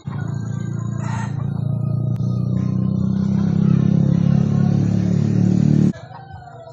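An engine running steadily, growing a little louder, then cutting off suddenly near the end.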